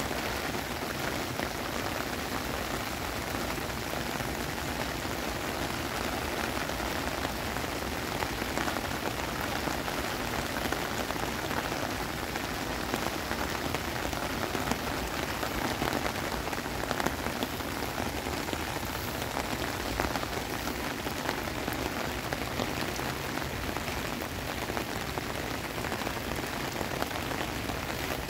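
Heavy rain pouring steadily onto wet pavement, an even hiss of splashing drops.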